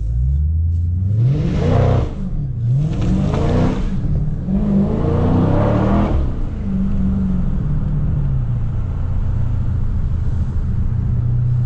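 Dodge Scat Pack's 6.4-litre HEMI V8 revving in three short pulls, its pitch climbing and dropping each time, then settling to a steady lower drone. The car is on light throttle, sliding on a wet road.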